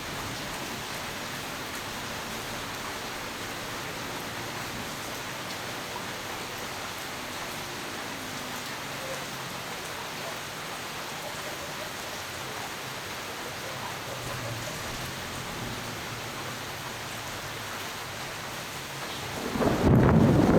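Steady rain falling in a thunderstorm, with faint low thunder rumbling now and then. Near the end a much louder, deeper rush starts suddenly.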